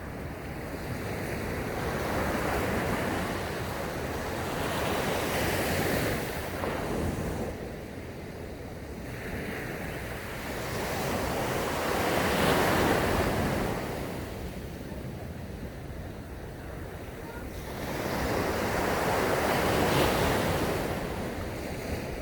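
Sea waves breaking on a sandy beach, each surge swelling and washing back, with three bigger breaks about six to seven seconds apart. Wind buffets the microphone.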